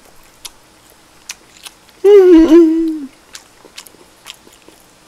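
A man's hummed "mmm" of about a second near the middle, wavering slightly in pitch, between faint scattered clicks of eating.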